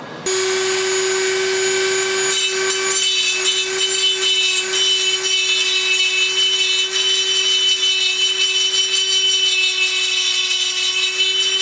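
Dremel rotary tool grinding weld off the inside of aluminium two-stroke crankcase halves, its motor holding a steady high whine with a rasping grind. It starts suddenly just after the beginning.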